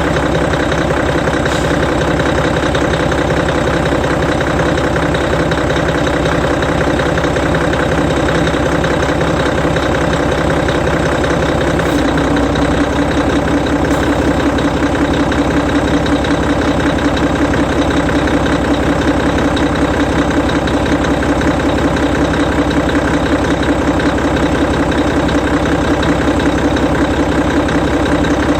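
Hino E13C 12.9-litre inline-six diesel of a Hino Selega coach idling steadily. About twelve seconds in, a steady hum joins the engine note and it gets a little louder.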